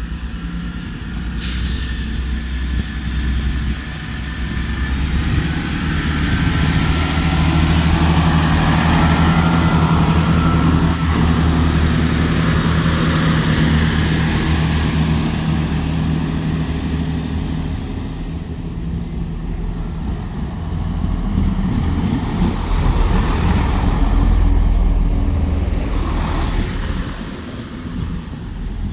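A train passing close by: a steady engine drone with wheel and rail noise. It grows loud in the middle, eases off, then swells again before fading near the end.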